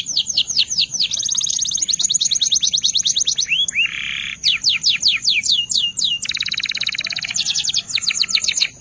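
Belgian canary singing a long, continuous song of rapid trills, each made of quick falling notes, with a lower buzzy phrase about four seconds in and fast rolls.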